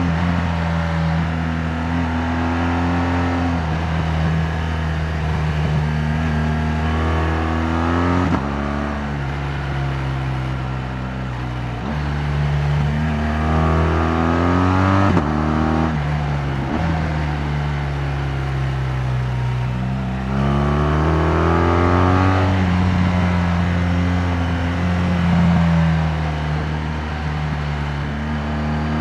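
A 2018 BMW R 1200 GS Adventure's liquid-cooled 1,170 cc boxer twin engine running under way, its pitch rising and falling with the throttle. It changes gear several times, with short clicks where the pitch jumps, about 8, 12 and 16 seconds in and again near 20 seconds.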